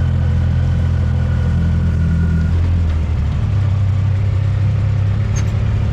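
Side-by-side UTV engine running steadily, its note dropping slightly about two and a half seconds in.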